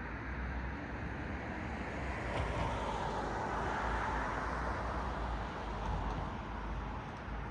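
Road traffic: a car passing on the road, its tyre and road noise swelling to a peak about four seconds in and then easing, over a steady low traffic rumble.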